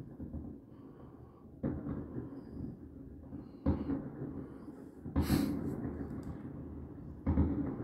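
Fireworks exploding at a distance over a city: four booms about two seconds apart, each rolling away after it, the last two loudest.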